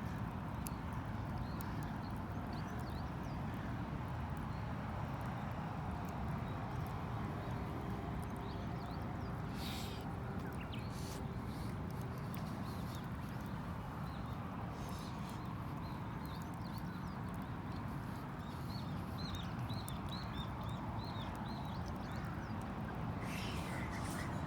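Wood campfire burning, with a steady low rush and scattered sharp crackles and pops.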